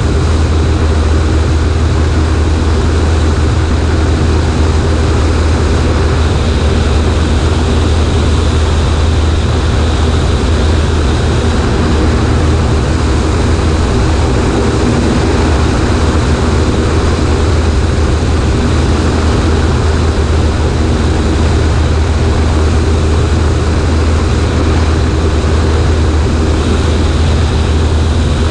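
Cessna 140A's piston engine and propeller running at a steady, even drone, with a constant rush of air, heard from the right wing.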